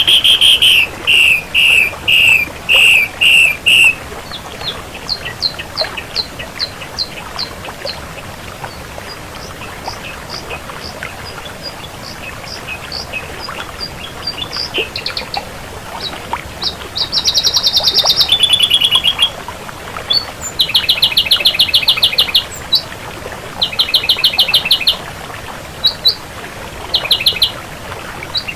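Ashy drongo singing: loud, buzzy rattling trills and short sharp notes. The phrases are loud for the first few seconds, become a run of quieter short notes in the middle, and turn loud and rattling again for the last ten seconds or so.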